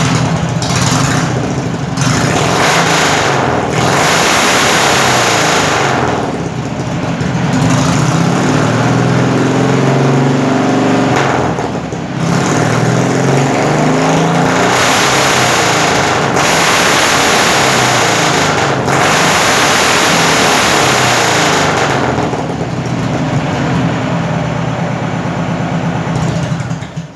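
Citroën 2CV's 602cc air-cooled flat-twin running loud through twin straight pipes, revved up and let back down again and again. It eases to a lower run after about 22 seconds, then cuts off at the end.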